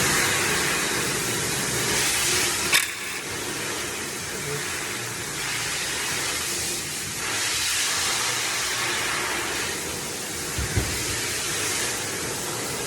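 Steady, loud hissing noise with a sharp click about three seconds in.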